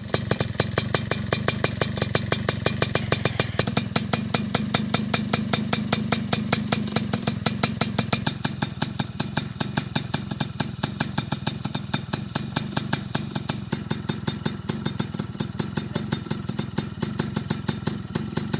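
Stock motorcycle engine idling steadily, its exhaust pulses an even, fast beat of about nine to ten a second; it settles a little quieter about eight seconds in.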